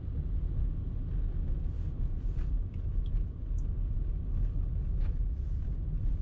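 A car driving in traffic: a steady low rumble of engine and tyres on the road, with a few faint short higher sounds over it.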